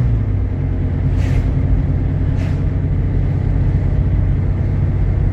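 Jeep Grand Cherokee's 3.7-litre V6 and tyre noise heard from inside the cabin while driving: a steady low drone that drops slightly in pitch right at the start. Two short hisses come about one and two and a half seconds in.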